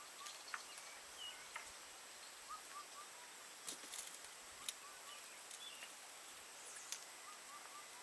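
Faint outdoor quiet with small groups of short bird chirps and a few sharp, light clicks over a soft hiss.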